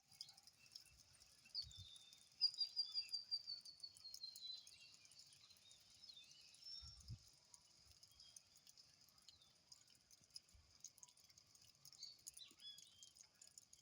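Birds singing in light rain. About two seconds in, one bird gives a quick run of whistled notes that step down in pitch, and a few shorter calls follow near the end. A steady high hiss and a light patter of rain run underneath.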